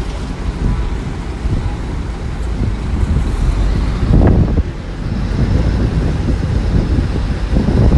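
Diesel engine of heavy earthmoving machinery running with a steady low rumble, with wind on the microphone; the engine surges louder briefly about four seconds in and again near the end.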